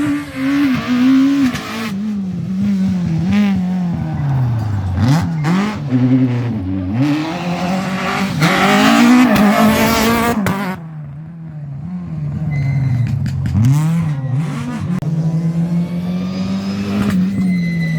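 Rally cars driven hard through a stage, engines revving up and dropping back again and again through gear changes and corners. A thin high squeal comes in over the engine in the later part, near the end.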